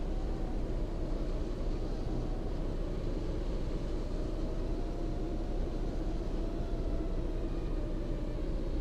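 FPV racing quadcopter's motors and propellers running hard in a steady drone, their pitch drifting slowly up and down as it fights a strong headwind, with wind rush mixed in.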